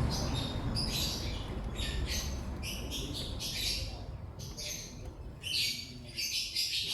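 Lovebirds chirping: a rapid, busy run of short, high-pitched chirps that keeps going with brief gaps.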